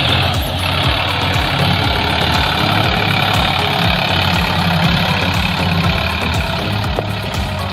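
Tractor engine running steadily, with an even low knocking beat.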